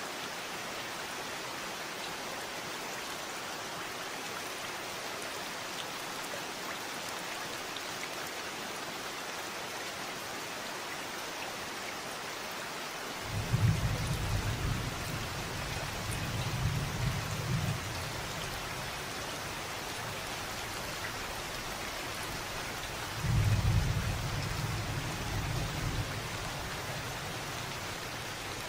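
Steady rain falling, with two low rolls of thunder, one beginning suddenly about halfway through and lasting a few seconds, and another about five seconds before the end.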